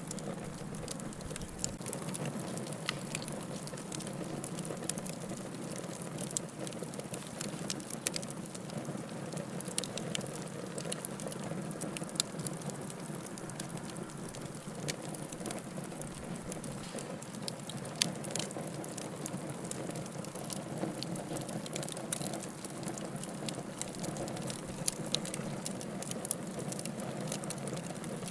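Firewood crackling in a fireplace: a steady hiss with many small pops and snaps throughout, and one louder pop about 18 seconds in.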